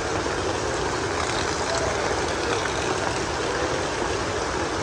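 Steady heavy rain falling, a constant even hiss, with a faint short falling squeak about a second and a half in.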